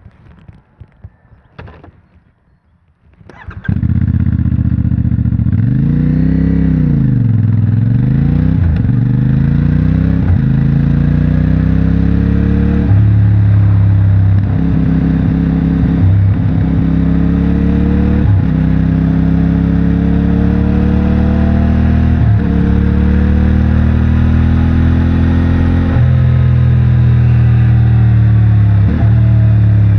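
A CFMOTO 450MT's 449 cc parallel-twin engine starts a few seconds in after some light clicks. It is revved once, then pulls away, rising in pitch and dropping sharply at each upshift through the gears.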